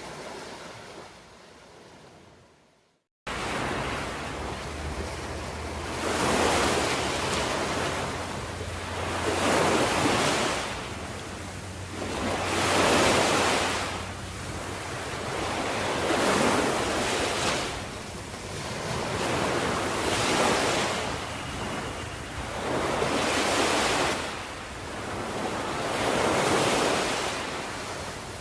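Ocean surf: waves washing in and drawing back in a slow, regular swell about every three seconds over a steady low rumble. Near the start the sound fades away to a moment of silence, then comes back in suddenly about three seconds in.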